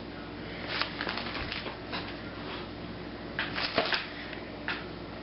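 Irregular short rustling and scraping sounds of baking soda being put into a container, loudest in a quick cluster a little before the four-second mark.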